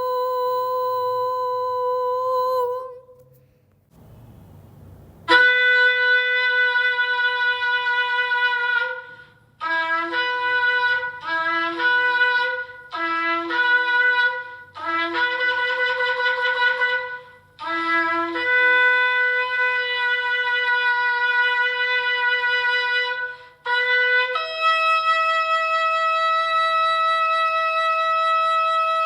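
Shofar blown in a series of calls. Long steady blasts alternate with a run of short broken blasts, and there is a brief pause about three seconds in. Near the end it moves to a higher note held long.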